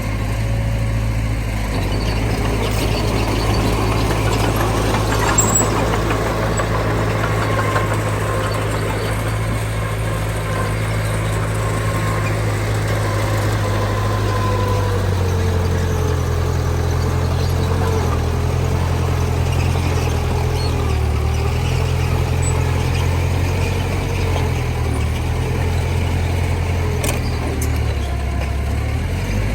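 Heavy diesel engines of earthmoving machinery running steadily. The engine note shifts lower about halfway through, and a fainter whine slides down in pitch.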